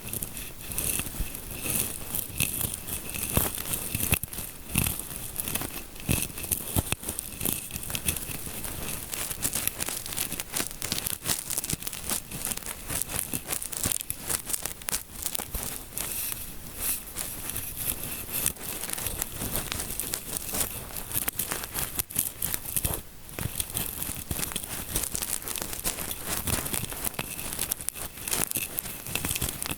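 Fingers scratching and rubbing close to the microphone, mimicking a scalp massage: a continuous, dense crackling rustle with many fine clicks.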